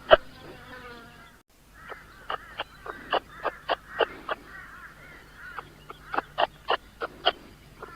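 A bird giving a run of short, harsh calls, about three a second, with a brief break about a second and a half in.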